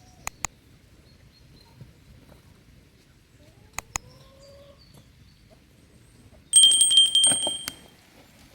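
Chickens clucking faintly, with two pairs of sharp clicks. Near the end comes a loud clatter with a high ringing tone that lasts about a second and then fades.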